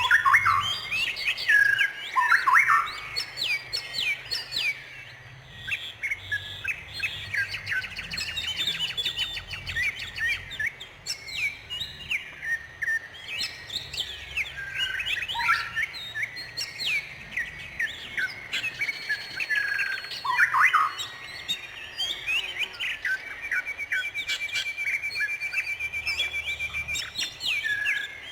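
Songbirds chirping and singing without a break, many quick whistled notes overlapping, with a rapid trill near the end.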